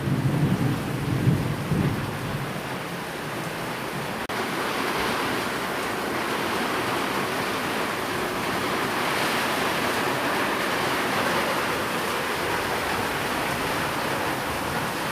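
Steady rain with the last of a low thunder rumble dying away in the first couple of seconds. About four seconds in the sound changes abruptly to an even, brighter rain hiss.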